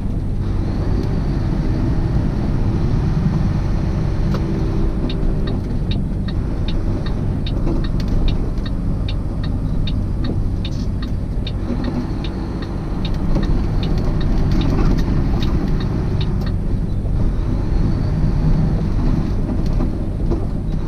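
Semi-truck's engine and road noise heard inside the cab while driving, a steady low drone. Through the middle of it comes a quick, regular ticking, about two ticks a second, for several seconds.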